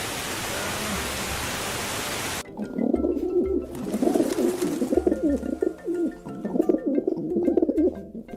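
A steady rushing noise that cuts off abruptly about two and a half seconds in, followed by several birds calling in low, overlapping, warbling notes.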